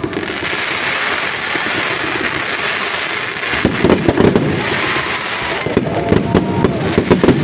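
Fireworks going off: a steady crackling hiss at first, then, about halfway in, a rapid run of sharp bangs and pops.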